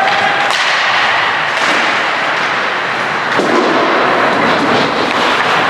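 Ice hockey play in a rink: a steady scraping rush of skates on ice with a few sharp knocks of sticks and puck.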